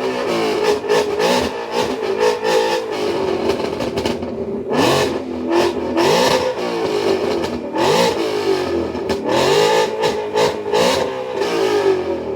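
A Ford Mustang's engine revved hard through its exhaust, pitch wavering at first, then about five sharp blips, each rising quickly and falling back to idle.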